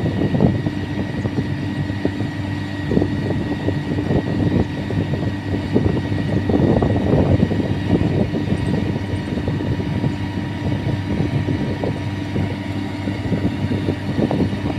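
Sany 155 rotary drilling rig's diesel engine running steadily, with irregular rattling and knocking throughout.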